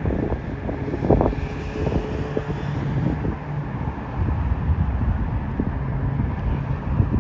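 Wind buffeting the microphone in uneven gusts, with road traffic noise underneath.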